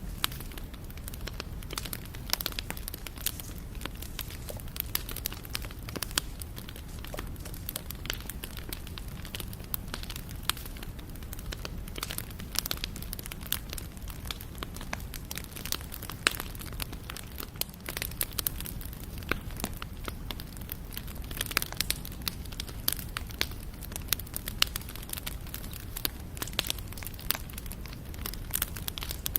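Wood campfire burning with a steady low rumble and dense, irregular crackling and popping.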